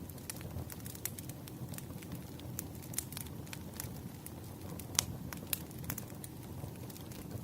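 Firewood logs burning: a steady low rumble of flames with frequent irregular pops and crackles, the loudest snap about five seconds in.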